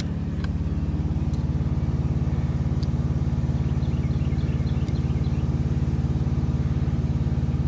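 Diesel engine idling steadily with an even low pulse, heard from inside a semi-truck's cab. A few faint clicks and light ticks of plastic trim and a wiring connector being handled.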